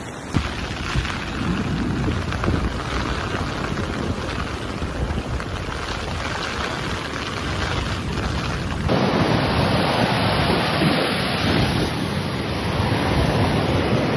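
Storm noise: a steady roar of wind and rushing water, rain or surf. The sound changes abruptly about nine seconds in, as one storm clip cuts to another.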